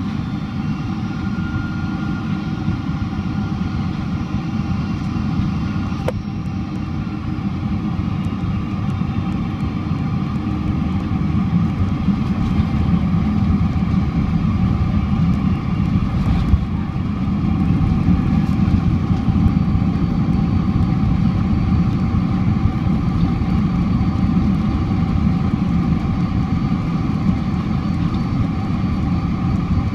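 Steady cabin noise of a Boeing 767-400ER on the ground after landing: a heavy low rumble with the engines' steady drone and a few held tones over it, swelling a little a third and about halfway through.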